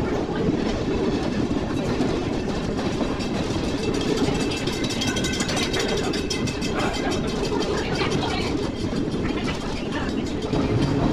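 Passenger train car rolling along the track: a steady rumble of wheels on the rails with some clickety-clack.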